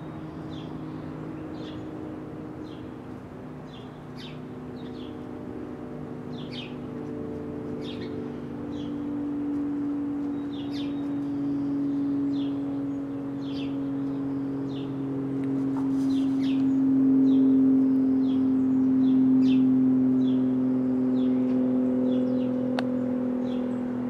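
Small birds chirping, short high chirps about one or two a second, over a steady low engine hum that swells louder through the middle and then eases slightly near the end.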